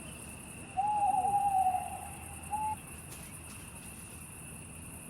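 An owl hooting: one long, level hoot of about a second, followed shortly by a brief second hoot, over a steady high insect chirring.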